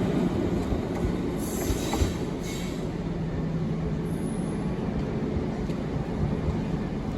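A train running on the track, its low rumble easing off at first and then holding steady, with brief high-pitched wheel squeals about one and a half and two and a half seconds in.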